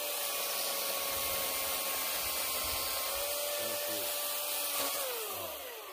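Battery-powered chainsaw running and cutting firewood, a steady electric-motor whine over the chain's rasp. A little before the end the motor spins down with a falling whine.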